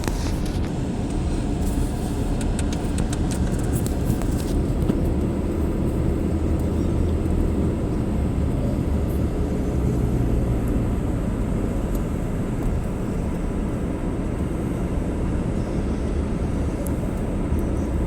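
Steady low road and engine rumble of a car driving, heard from inside the cabin, with a scatter of faint clicks in the first few seconds.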